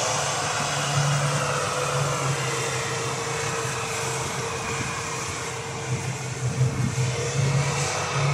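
Off-road SUV engine running steadily, with a few louder surges about six to seven seconds in.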